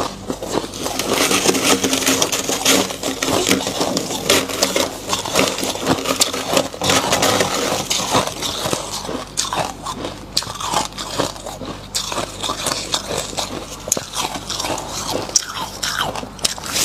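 Thick frost crunching as it is dug out by hand and bitten: a dense, continuous run of crunches and scrapes.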